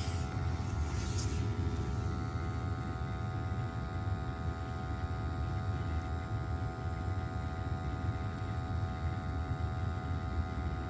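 Gas-fired hot water boiler running with its burners lit: a steady low rumble with a steady hum of several tones over it.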